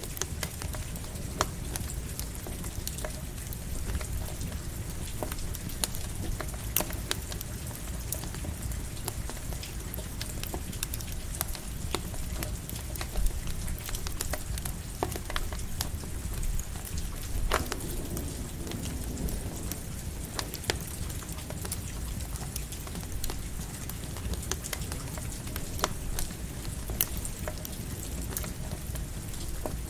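Campfire crackling, with sharp pops scattered throughout, over the steady patter of light rain and a low rumble.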